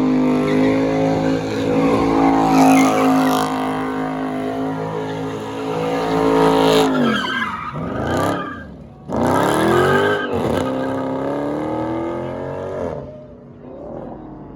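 Car engine held at high revs during a burnout, with tyres squealing. About seven seconds in the revs drop away, then climb again a second or two later and fall off near the end.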